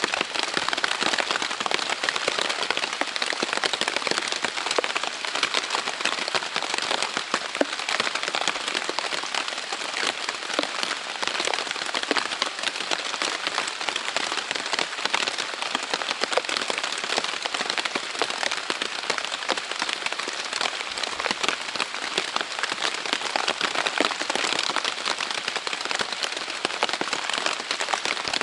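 Heavy rain beating steadily on the taut Dyneema fabric of a Zpacks Plexamid tent: a dense, even rush of drops with many sharp individual ticks and crackles.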